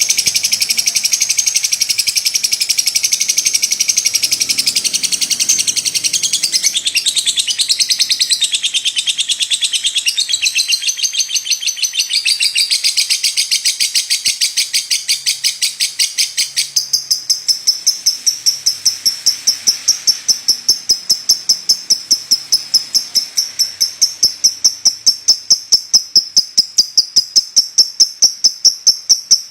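Lovebird singing a long, continuous, high-pitched chattering trill. About halfway through it settles into a steadier, fast, evenly pulsed trill that grows louder toward the end.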